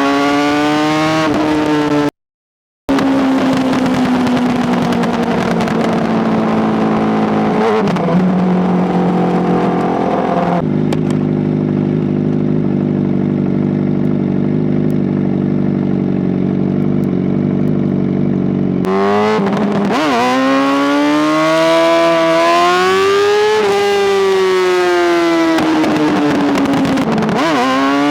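Honda CBR600RR inline-four engine under way. The revs slowly fall as the bike slows, then hold steady for several seconds. Near the end the engine revs up through the gears, pitch rising and dropping at each shift. The sound cuts out briefly just after the start.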